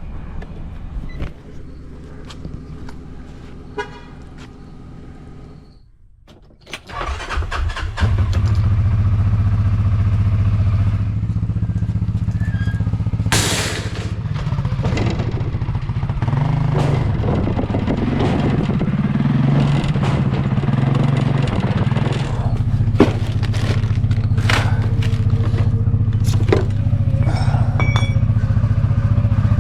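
CFMoto off-road vehicle engine running. It dips to near quiet around six seconds in, then from about eight seconds on drones steadily and louder while driving, with scattered knocks and rattles over it.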